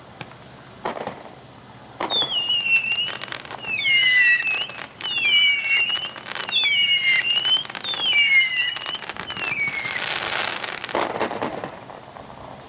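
Supersonic 200-gram multi-shot fireworks cake firing: sharp shot reports, then a run of overlapping whistles that each fall in pitch, then a burst of crackling about ten seconds in.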